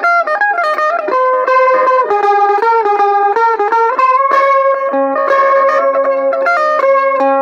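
Mandolin played solo: a slow melody of held notes, each sustained by rapid tremolo picking, some with two strings sounding together.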